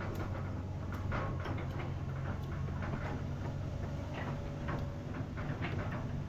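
Excavator's diesel engine running steadily, with frequent irregular clicks and knocks over it.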